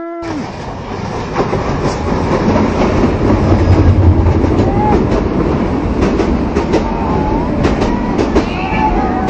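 A train running past close by, its wheels clattering over the rail joints with many sharp clicks. The noise builds over the first few seconds as the train draws level, then stays loud.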